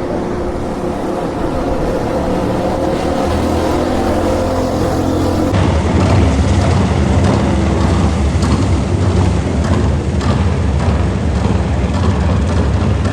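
Motor vehicle engine running steadily under a wash of noise; the sound changes abruptly about five and a half seconds in.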